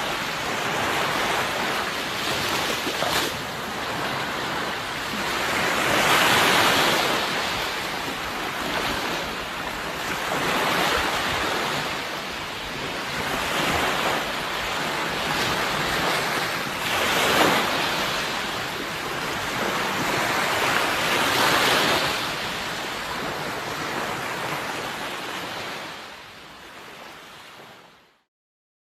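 Sea waves breaking and washing ashore, swelling and falling every few seconds. Near the end the surf fades out to a brief silence.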